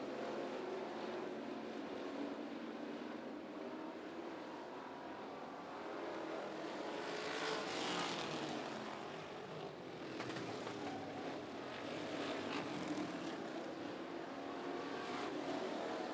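Classic car division dirt-track race cars running laps, a steady engine drone from the pack that swells as cars pass by about halfway through, then eases and builds again with further passes.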